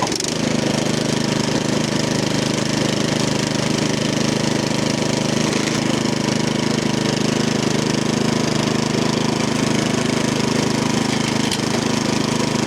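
MTD snowblower's Powermore 208cc single-cylinder four-stroke engine running steadily at its set speed, no longer hunting: after the carburetor repair it is running really good.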